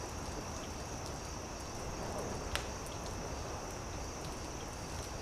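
Campfire crackling with scattered small pops and one sharper pop about halfway through, over a steady high insect chirring.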